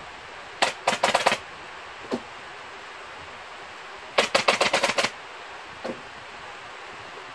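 Pneumatic upholstery staple gun firing in two quick bursts of sharp clacks, about a second in and again around four seconds in, each a rapid run of shots.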